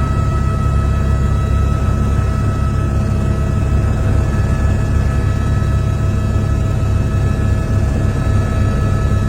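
Helicopter running steadily: a low rotor rumble with a steady high whine over it.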